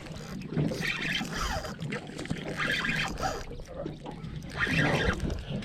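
Water slapping and lapping against a small boat's hull in strong wind, in surges about every two seconds, with wind on the microphone.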